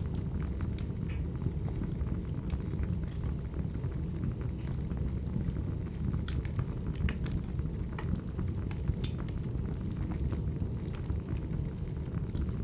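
Wood fire burning: a steady low rumble of the flames with irregular sharp crackles and pops from the burning firewood.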